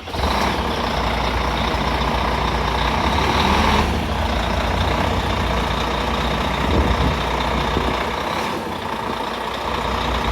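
Semi tractor's Volvo 12.1-litre diesel engine running loud as the truck is driven through. The sound comes up abruptly at the start and eases slightly about four seconds in.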